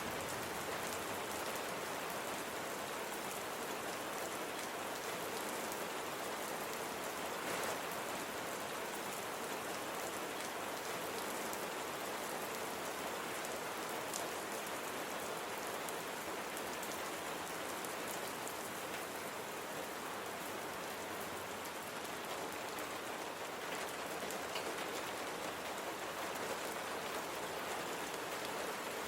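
Steady rain falling, an even hiss with a fine scatter of individual drops striking a surface.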